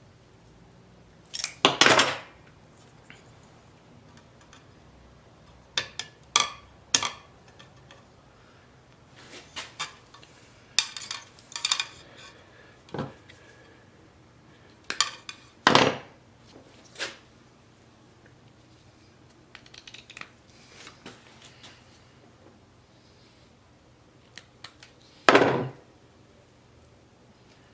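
Metal tools and parts being handled: irregular sharp clinks and knocks, a dozen or so spread out with pauses between, over a faint steady hum.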